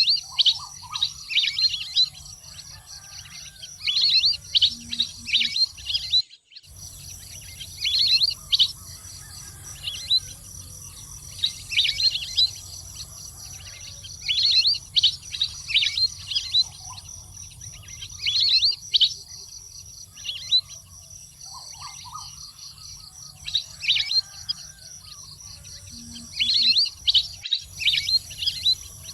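Water bird calling: bursts of quick, high, downward-sliding whistled chirps every couple of seconds, with two brief cut-outs in the sound.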